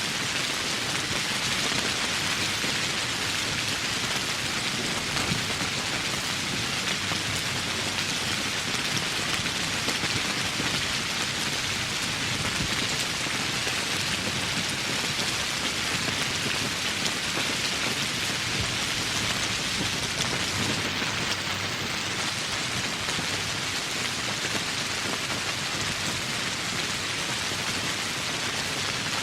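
Steady heavy rain falling on foliage and surfaces, an even dense hiss that holds constant throughout.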